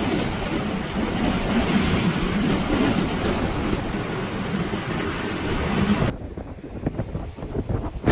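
Storm-force wind rushing and buffeting the microphone in gusts. About six seconds in, it cuts to a quieter stretch of gusty wind.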